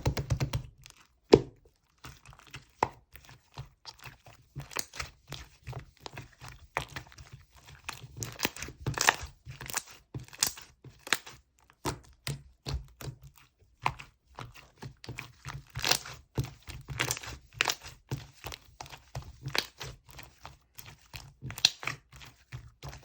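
Slime being squished, poked and stretched by hand, making irregular sticky clicks, pops and crackles, some in quick clusters.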